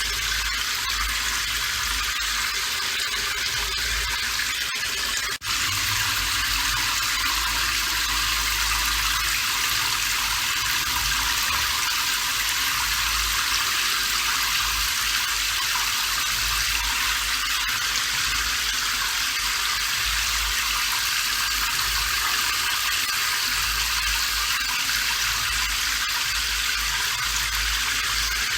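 Steady rain falling, a continuous even hiss with a low rumble underneath, broken only by a momentary drop in level about five seconds in.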